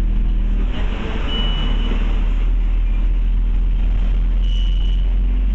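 Scania OmniCity bus engine running, heard from inside the cabin as a steady low drone. Two short high-pitched tones sound about a second in and again near the end.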